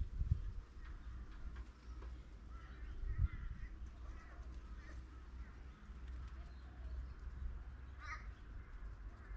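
Wild birds calling on and off, with one louder call about eight seconds in, over a steady low rumble. A single thump comes about three seconds in.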